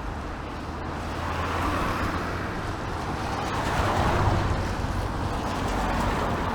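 Road traffic passing on a wet street: tyre hiss swells and fades twice over a low steady engine hum.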